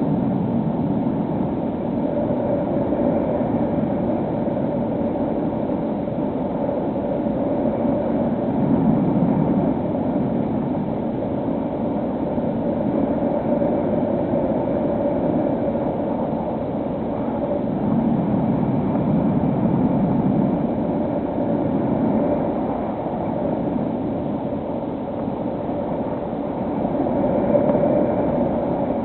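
Electric motor and propeller of a HobbyKing SkyEye FPV plane running steadily in flight: a steady drone with a held mid-pitched tone over a noisy rush that swells and eases every few seconds.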